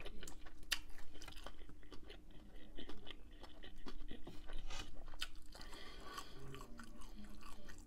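Chewing bacon-wrapped shrimp: irregular crunching and short clicking mouth sounds.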